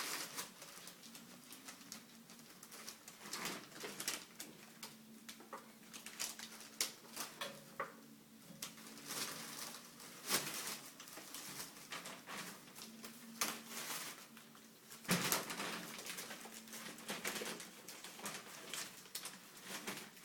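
Kittens romping: irregular scrabbling, pattering and knocks, with a louder cluster of knocks about 15 seconds in.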